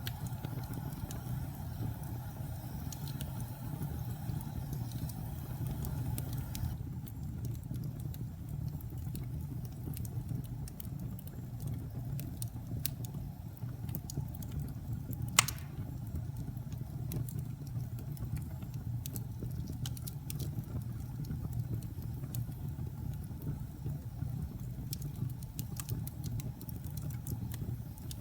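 Wood fire burning in a fireplace: a steady low rumble with many small crackles and one sharp pop about halfway through.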